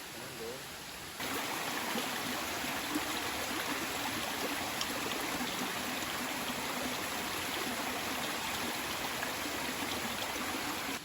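Steady rush of flowing stream water that cuts in suddenly about a second in and stops abruptly near the end.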